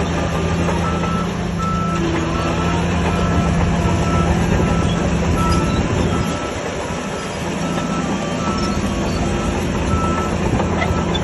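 Diesel engine of a heavy earthmoving machine running while its reversing alarm beeps steadily about twice a second. The engine note drops for a couple of seconds about six seconds in.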